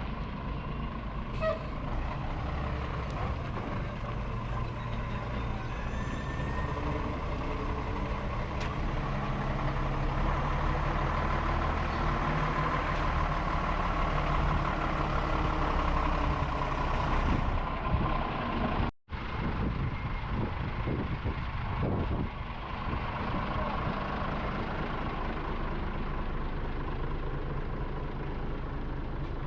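Heavy truck engine running steadily, broken by a brief cut-out about two-thirds of the way through.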